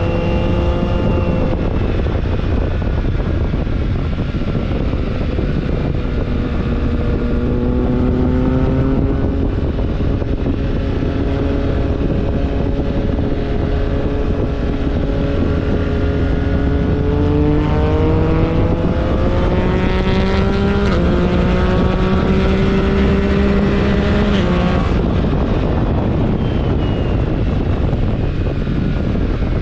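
BMW R1300GS Adventure's boxer twin engine running under way, with wind and road noise. The engine pitch holds fairly steady, climbs in steps between about 17 and 24 seconds in, then falls off sharply as the throttle closes, rising again faintly near the end.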